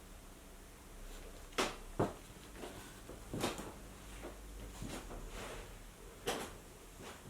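Wooden boards being handled on a workbench: several short knocks and bumps of wood.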